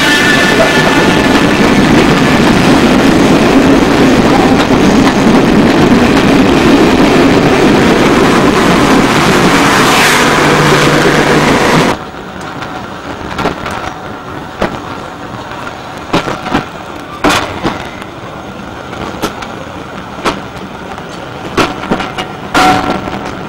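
Train carriages running past at close range: a loud rushing rumble that drops away suddenly about halfway through, followed by sharp irregular clacks of wheels over rail joints.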